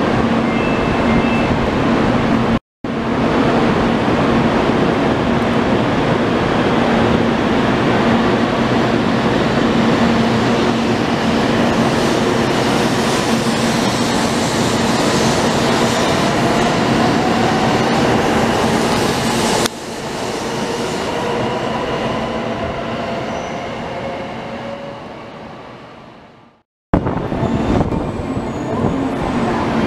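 Shinkansen train pulling out of the platform: a loud, steady rumble with a rising electric motor whine as it gathers speed, then fading away. After a brief break, a second train's noise starts near the end.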